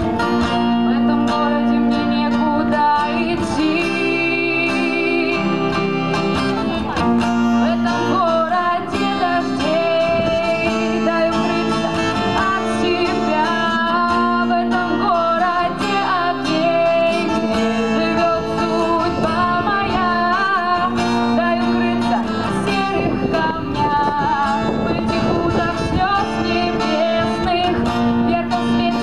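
A young woman singing a song while accompanying herself on guitar.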